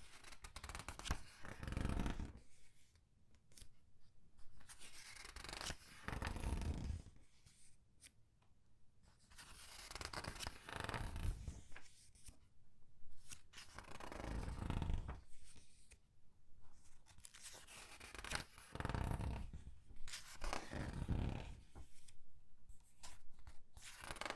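Comic book pages being turned one at a time and squeezed, giving bursts of paper rustling and crinkling every few seconds.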